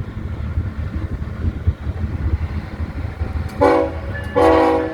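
Diesel locomotives of a loaded Union Pacific coal train rumbling by, with two blasts of the locomotive air horn near the end, the second longer than the first.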